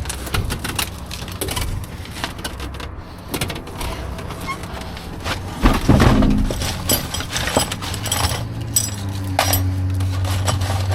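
Scrap and debris being dug through and shifted in a dumpster: irregular knocks, clanks and scrapes, loudest about six seconds in. A steady low hum comes in about nine seconds in.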